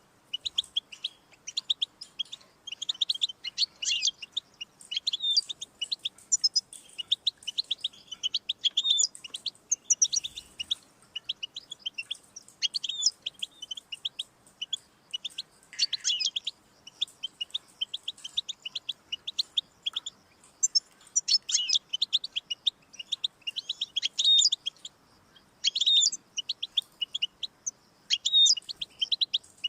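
European goldfinch singing: a fast, nearly continuous twittering of short high notes and trills, broken only by brief pauses.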